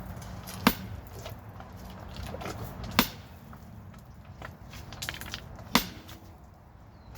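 Sledgehammer striking a rock, three heavy blows roughly two and a half seconds apart, the hammer's weight mostly just dropped onto the stone.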